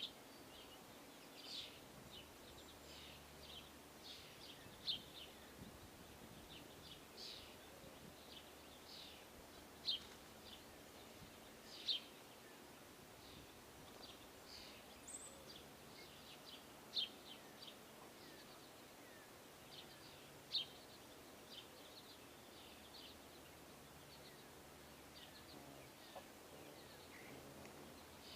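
Small birds chirping: scattered short, high chirps, a louder one every few seconds, over faint steady background noise.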